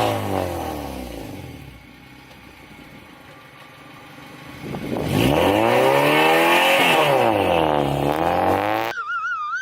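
Acura RSX's K20A3 inline-four running through a Skunk2 Alpha race header and a KTuned 3-inch oval exhaust. Its revs fall away and fade, then about five seconds in come back loud and swing down and up twice. A warbling high tone cuts in near the end.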